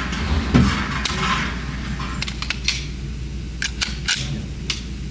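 An irregular series of sharp gunshot cracks, not very loud, from other shooters on the range, several in quick succession between about two and five seconds in, over a steady low hum. A duller knock comes about half a second in.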